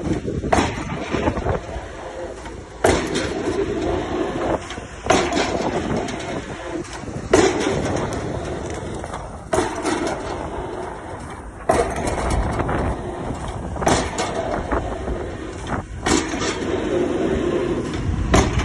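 Excavator drop hammer driving a square concrete pile, striking a sharp blow about every two seconds, over the steady running of the excavator's engine.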